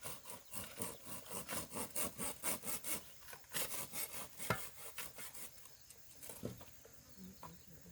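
Bamboo being sawn by hand: a steady back-and-forth rasp of saw strokes, about two to three a second, that thins to a few scattered strokes after about five seconds.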